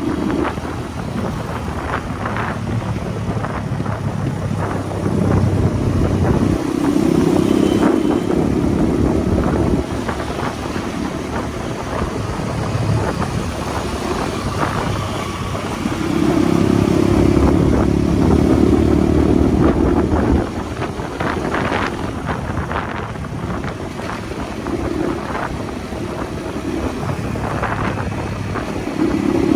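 Motorcycle engine running on the move with wind and road noise. The engine note swells twice, for a few seconds each time, about a fifth of the way in and again just past the middle, then drops back to a lower steady run.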